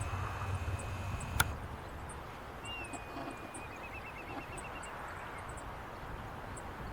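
A wild bird calling once: a short gliding note that runs straight into a quick trill of repeated notes, lasting about a second. Just before, a sharp click cuts off a low hum and a steady high tone.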